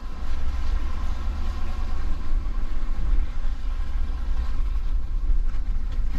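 Plow truck driving slowly, its engine running with a steady low rumble and its tyres going over melting slush.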